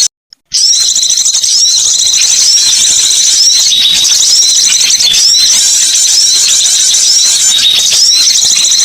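Bird-lure recording of small songbirds chirping rapidly and continuously in dense, repeated high-pitched notes. It begins after a brief break of silence at the very start.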